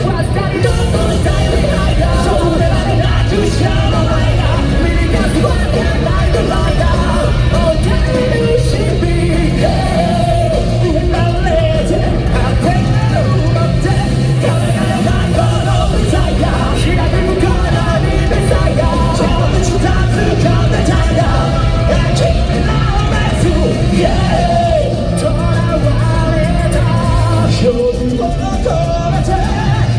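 Live rock band playing loudly, with sung lead vocals and shouts over guitars, bass and drums, heard from the audience in a large hall.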